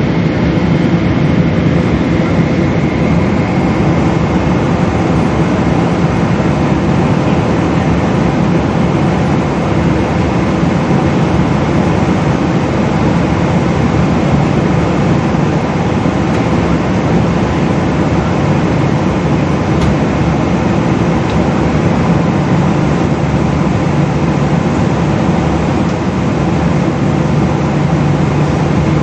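Steady jet engine and airflow noise heard inside a Boeing 777's passenger cabin, an even rush with a faint steady hum in it.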